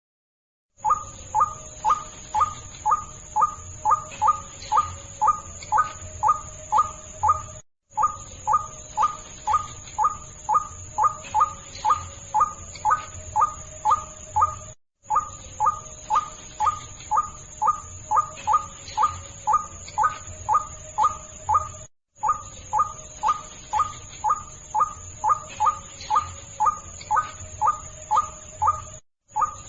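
White-breasted waterhen lure call: repeated harsh 'kruak' notes about twice a second, played as a recording that loops roughly every seven seconds, each loop cutting off abruptly with a short gap. A steady high-pitched tone runs behind the calls.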